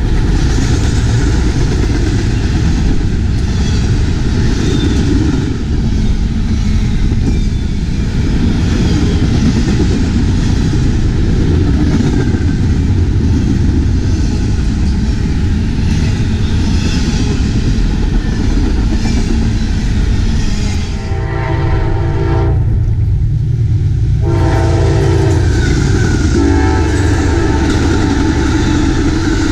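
Double-stack container freight train rolling past at close range: a steady rumble and clatter of wheels on rail. About twenty seconds in, a passing Amtrak passenger train's multi-note air horn sounds three times, the last blast the longest.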